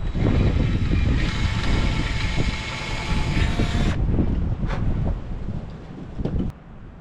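Wind buffeting the microphone as a heavy low rumble. A steady whine of several high tones runs over it from about one to four seconds in, then stops abruptly, and the whole sound drops off sharply near the end.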